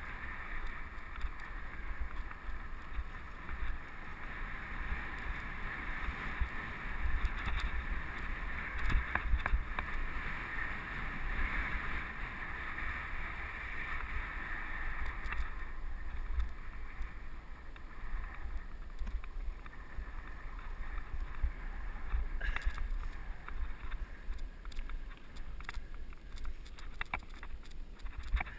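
Mountain bike ridden on a dirt trail, heard through a helmet-mounted GoPro: wind buffets the microphone and the tyres rumble over the dirt, with scattered clicks and rattles from the bike.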